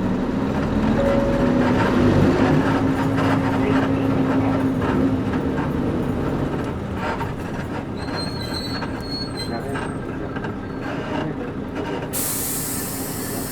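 Interior sound of a Nissan Diesel KC-UA460LSN leaf-sprung bus with its PG6 diesel and five-speed overdrive gearbox, pulling away. The engine note rises over the first few seconds and drops off at a gear change about six seconds in. A thin high squeal follows, and near the end there is a sharp burst of air hiss.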